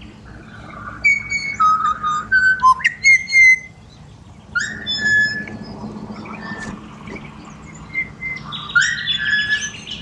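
Pied butcherbirds singing: clear, fluted whistled notes in short melodic phrases, with a burst about a second in, another about four and a half seconds in, and another near the end.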